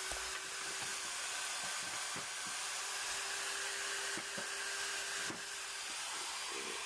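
Small router with an eye-cutting bit running at high speed, giving a steady whine over a hiss, with brief catches as the bit cuts eyes into black walnut wood.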